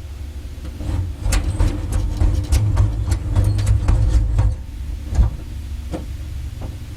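P-51 Mustang's Merlin V-12 engine starting: a low rumble builds, then irregular sharp pops and cracks come as the cylinders catch, with one louder bang about five seconds in, before it settles into a steady low rumble.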